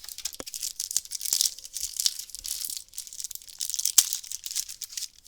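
A trading-card booster pack's wrapper being torn open and crinkled by hand: continuous high crackling with sharp snaps, the loudest about four seconds in.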